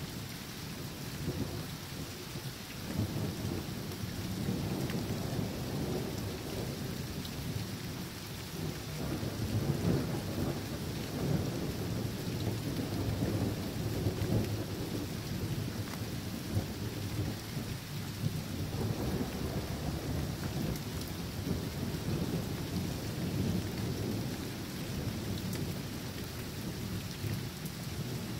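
Thunderstorm: steady rain hissing, with long rolls of thunder rumbling underneath that swell about three seconds in, peak around ten to fifteen seconds in, and rise again near twenty seconds.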